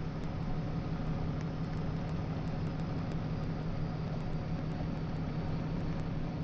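Engine idling steadily: an even low hum with a light hiss over it.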